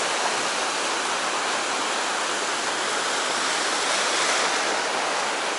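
Steady rushing of sea surf washing on the shore, swelling slightly about four seconds in.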